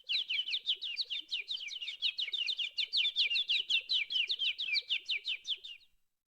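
Stock sound effect of a bird chirping: a rapid, even run of short, falling chirps, about six a second, lasting around six seconds and stopping abruptly.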